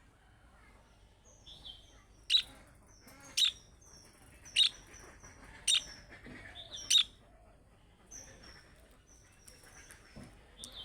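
Budgerigars chirping and twittering in short high notes, with five sharp, loud calls about a second apart in the first half.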